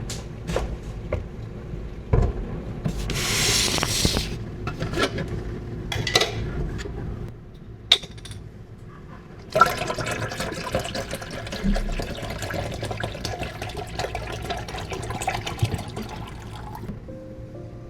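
Water running and splashing. There is a short burst about three seconds in, then a steadier run from about ten seconds until near the end, with scattered light knocks and clinks of handling.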